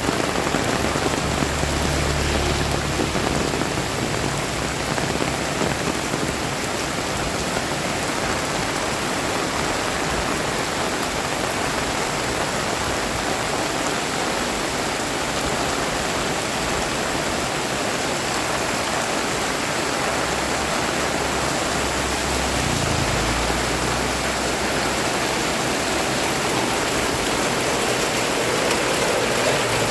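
Heavy rain pouring down steadily, a dense even hiss of drops, with a few brief low rumbles underneath.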